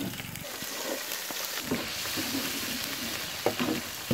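Sliced onions and garlic sizzling in hot oil in a flat metal pan, stirred with a metal spatula, with a few sharp clinks of the spatula against the pan near the end.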